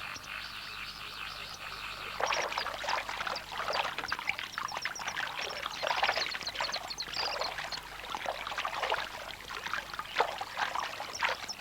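A fledgling malachite kingfisher splashing and flapping in the water after a crash landing on its first flight, with irregular splashes starting about two seconds in and going on throughout.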